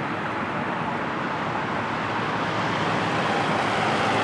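Jet airliner on final approach, a steady engine noise that grows slowly louder, with a faint whine coming in near the end.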